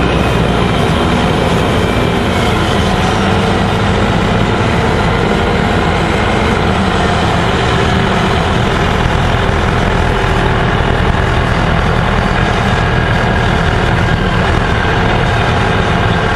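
Gillig Phantom transit bus running steadily, its diesel engine and road noise loud and even throughout. A faint high whine falls in pitch over the first few seconds.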